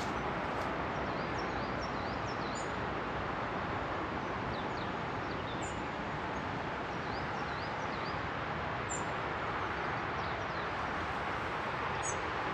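Small birds chirping in short, high calls scattered throughout, over a steady rush of background noise.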